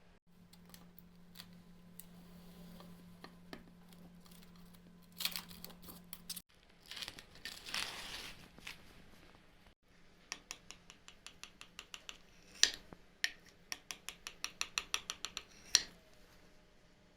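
Kitchen utensils clicking and tapping against a dish, with a scraping stretch about halfway through, then a quick run of light taps near the end.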